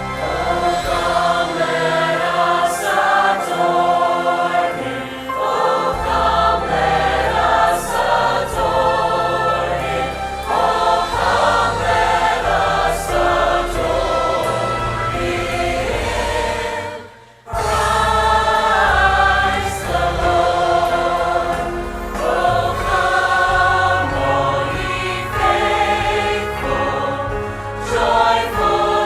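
Choir singing a Christmas song with instrumental accompaniment. The music drops out suddenly for about half a second a little past halfway, then carries on.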